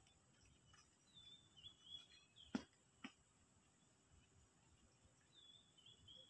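Quiet outdoor ambience with a bird singing a short whistled warbling phrase, about a second in and again near the end. In between come two sharp clicks about half a second apart, the first the loudest sound.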